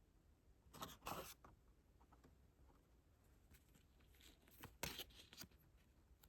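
Faint handling of album packaging: two brief bursts of rustling and light scraping, about a second in and again near five seconds, against near silence.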